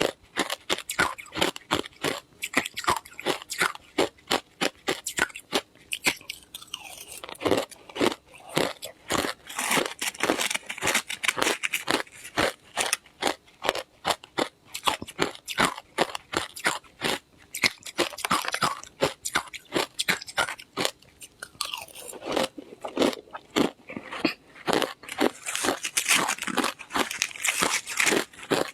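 Ice being bitten and chewed close to the microphone: a rapid string of sharp, crackling crunches, coming in runs with brief lulls.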